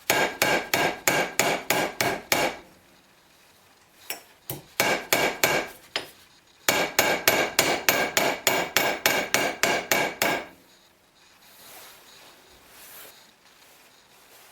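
Fast, rhythmic hammer taps on metal, about five a second, in three runs with short pauses between them; each tap has a slight metallic ring.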